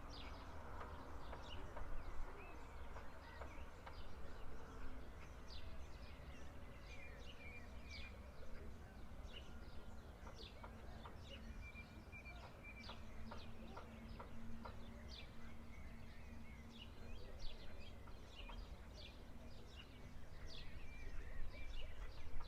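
Small birds chirping, with many short, high notes scattered throughout, over a steady low background rumble.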